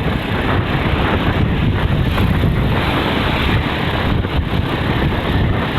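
Steady wind buffeting on the microphone mixed with the running motorcycle's engine and road noise at cruising speed.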